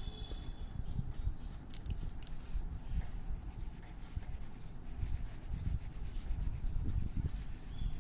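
Irregular scratching and rubbing of colouring on paper, with uneven low bumps and a few sharp clicks, a cluster of them about two seconds in.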